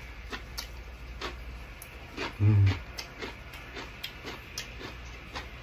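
A person eating close to the microphone: small chewing and mouth clicks, several a second. About two and a half seconds in, the eater's voice gives a brief low hum.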